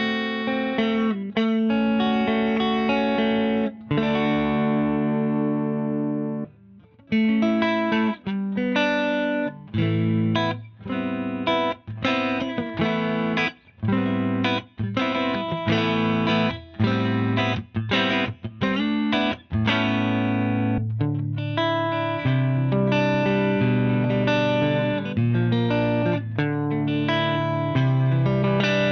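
Electric guitar played through a Wampler Ego 76 mini compressor pedal. Chords ring; about four seconds in, one chord is left to ring out and fade. Then comes a run of short, choppy chords with brief stops, and held chords near the end.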